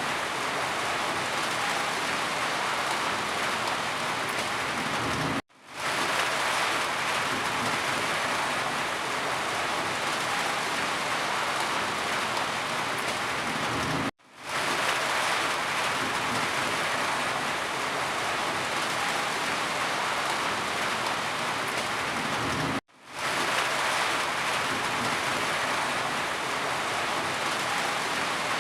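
Steady rain falling. The sound cuts out briefly three times, evenly spaced about nine seconds apart, each time fading quickly back in.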